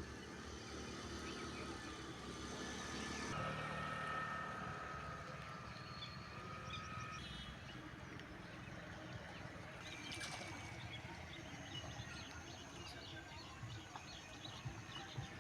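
Outdoor background noise with a low rumble and scattered faint bird chirps.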